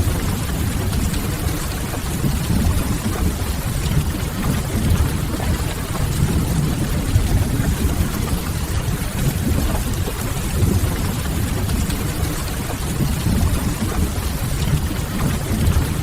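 Steady rain, a continuous even hiss, over a low rumble that holds without a break.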